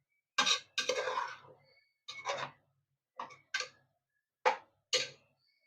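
A spoon stirring and scraping tomatoes and ground mint-coriander paste in a cooking pan, in about six short strokes with pauses between them.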